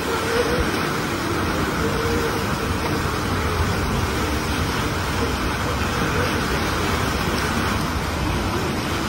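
Steady rushing noise of strong typhoon wind, with a faint steady tone coming and going.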